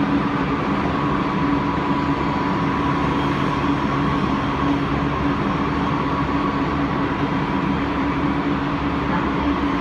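Odakyu 2000 series electric train running at a steady speed, heard from inside the car: even wheel-and-rail noise with a steady whine and hum from the VVVF inverter and traction motors.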